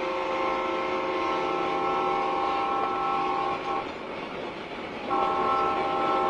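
Diesel locomotive air horn on an Alco-powered freight train, sounding several notes together in a long blast. It breaks off a little under four seconds in and sounds again about a second and a half later, over the noise of the moving train.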